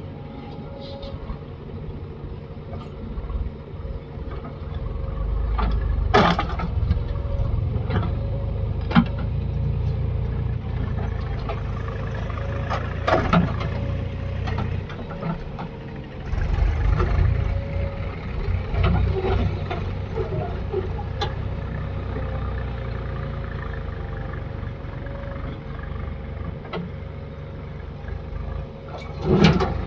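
Backhoe loader's diesel engine running, swelling in loudness twice as it works under load, with sharp knocks and clunks now and then.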